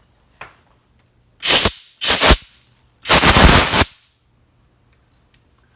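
Three bursts from a compressed-air blow gun, two short ones and then one of about a second, clearing drill chips and cutting fluid from a freshly drilled bar-stud hole in a chainsaw crankcase.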